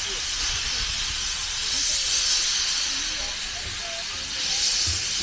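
Steam locomotive hissing as it vents steam, swelling twice, with a low rumble and faint voices of people around it.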